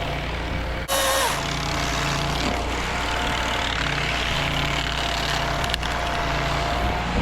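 An engine idling steadily, with a low pulsing hum and a constant tone, broken about a second in by a sudden short crash-like noise.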